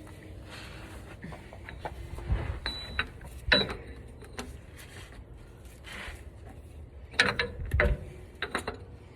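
Hand tools and oil-change parts being handled: scattered clicks, clanks and knocks, busiest about three and a half seconds in and again in a quick cluster around seven to eight seconds.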